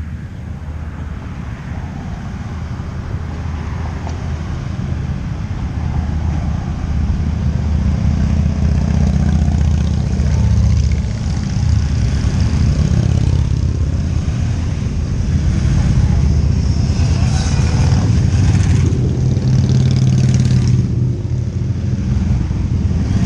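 Motor vehicle engine running, growing louder over the first nine seconds or so and then holding steady.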